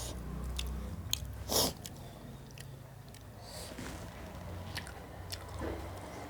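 A person chewing and eating food close to the microphone, with scattered wet mouth clicks and one louder, noisier burst about a second and a half in.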